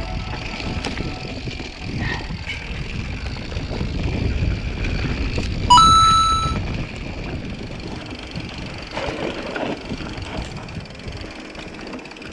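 Mountain bike riding along a trail, a steady rumble of riding noise. A little before halfway, a sudden short high ringing tone lasting under a second is the loudest moment.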